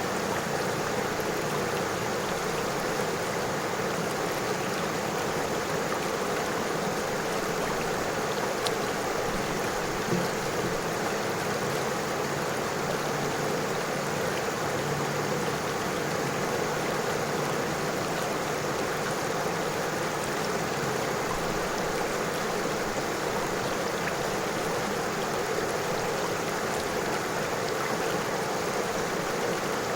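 A river or stream flowing steadily over stones, a continuous even rush of water with small ticks of splashing.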